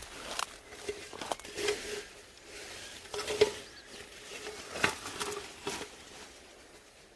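Light rustling and scattered clicks and scratches of someone searching through a chicken coop, with a few brief soft tones in between.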